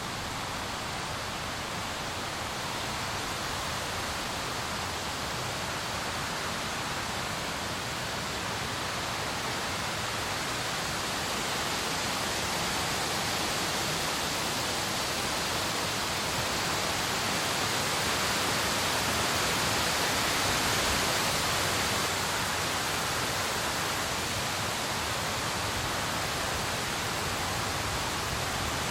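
Steady rain, an even dense hiss that grows a little louder around the middle and eases off slightly again, with no thunder.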